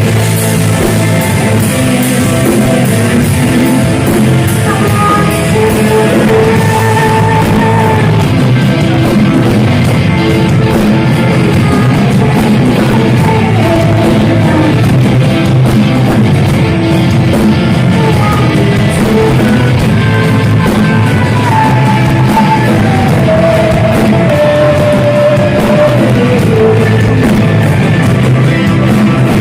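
Heavy metal band playing live at full volume: dense distorted band sound with drums and a sung vocal line.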